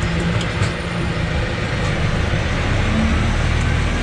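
Sherp 10x10 amphibious off-road vehicle's engine running steadily under load as it drives forward, a continuous drone with a few light knocks in the first second.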